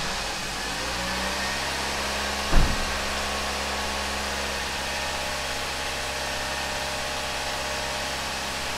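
Toyota 1NZ-FE 1.5-litre inline-four idling steadily just after start-up, running on its freshly repaired and refitted plastic intake manifold; the revs come down and settle in the first second or so. A single short thump about two and a half seconds in is the loudest moment.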